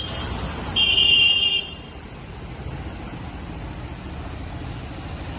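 A vehicle horn sounds once, a steady high honk a little under a second long, about a second in. A steady wash of heavy rain and road noise continues underneath.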